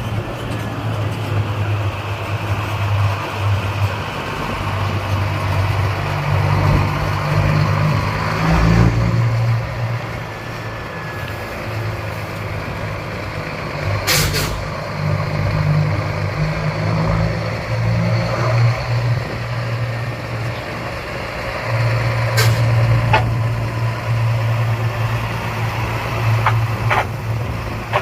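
Scania truck's diesel engine running and pulling through the streets, its low drone rising and falling, with a short sharp hiss of air about halfway through, typical of its air brakes.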